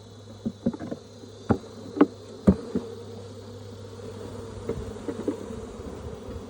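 Honeybees buzzing steadily around an open nuc hive. Over the hum come a series of sharp knocks, loudest in a cluster in the first three seconds, as bees are shaken and knocked off a frame into the box.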